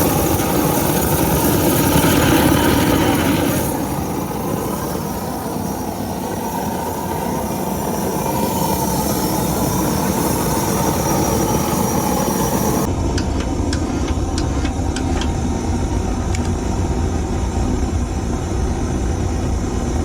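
Propane burner firing a melting furnace: a loud, steady rush of gas and flame. About two-thirds of the way through the sound changes abruptly to a duller, lower rush with a few sharp clicks.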